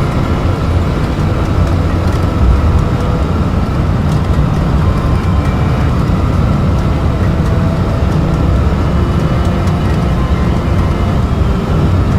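Steady low rumble of airflow and engines inside an Airbus A319's flight deck during the approach, with no sudden events.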